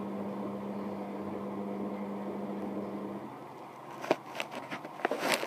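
Hotpoint WM74 washing machine spinning with a steady hum. The machine's drum bearings are worn. The hum's tone cuts off about three seconds in and the sound winds down, then several sharp clicks and knocks follow near the end.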